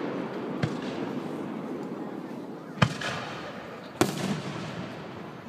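Fireworks shells bursting: three sharp bangs about a second or more apart, the second and third the loudest, over the fading rumble and crackle of the barrage just before.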